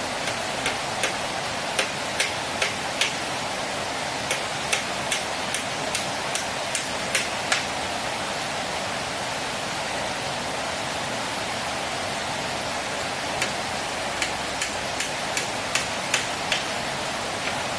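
Steady rushing of flowing water, with sharp knocks a few times a second that stop for about five seconds midway, then start again.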